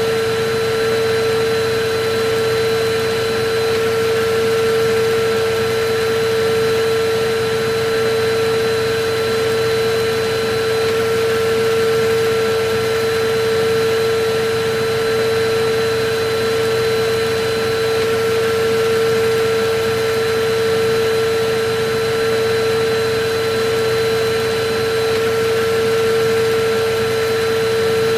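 Electric vacuum cleaner running continuously, a steady motor whine over a loud rush of air with no change in speed.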